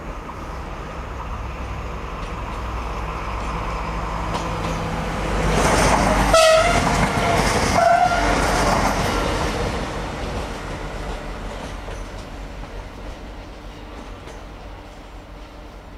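Electric passenger train passing close on the near track: the rushing noise builds, is loudest about halfway through as it goes by, then fades steadily as it pulls away. Two short high tones sound as it passes.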